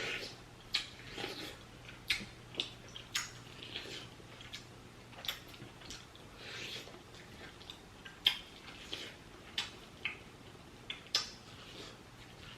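Close-miked mouth sounds of eating: chewing with sharp, wet lip smacks at irregular intervals, roughly one every second or so.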